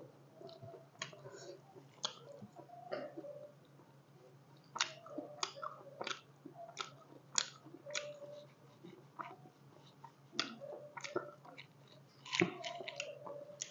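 A person chewing and biting pieces of pork curry close to the microphone, with irregular wet smacking clicks from the mouth.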